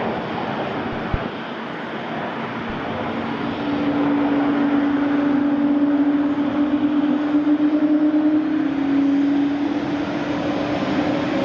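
Jet airliner's engines running as the plane passes, growing louder about four seconds in with a steady hum that drifts slightly lower in pitch. A short click about a second in.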